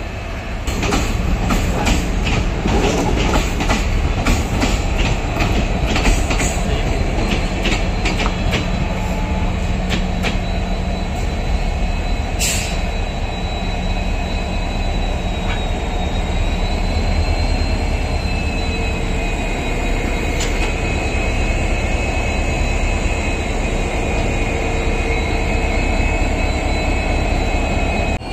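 Diesel locomotive and passenger coach passing close by, wheels clicking over rail joints in the first half, then a thin, wavering wheel squeal over a steady rumble.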